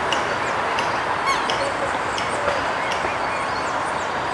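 Birds calling: short, high, falling chirps repeated every half second or so, over a steady background hiss.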